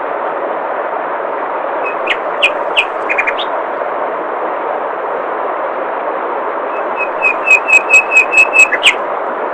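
Steady rush of flowing water with a songbird calling over it: a few chirps about two seconds in, then a quick run of about ten repeated notes near the end, finishing on a falling note.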